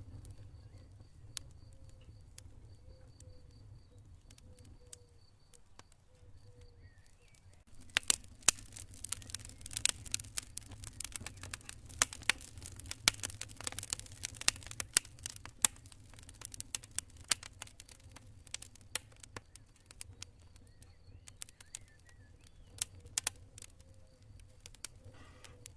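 Campfire crackling, quiet at first and then, about eight seconds in, breaking into dense sharp crackles and pops over a low steady rumble. A cricket chirps in short pulsed trills, plainest in the first seconds and again faintly near the end.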